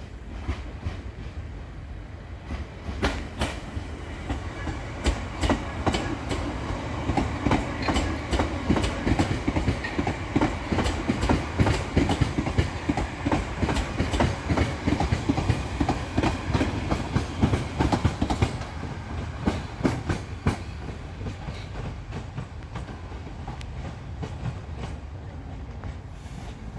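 Class 450 Desiro electric multiple unit running past, a low rumble with its wheels clicking rapidly over the rail joints. The sound builds from about three seconds in, is loudest through the middle and fades away over the last several seconds.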